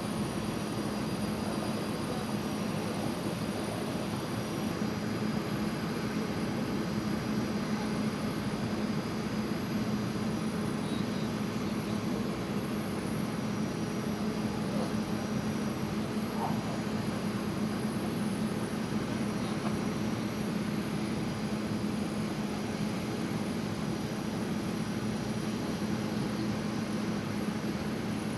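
Jet airliner engines running steadily: an even rush of noise with a constant low hum.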